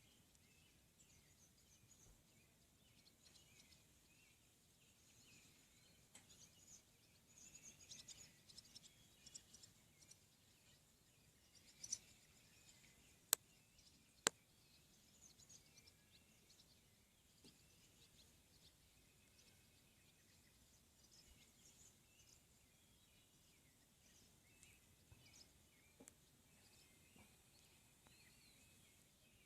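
Faint outdoor quiet with distant birds chirping now and then. Two sharp clicks about a second apart near the middle.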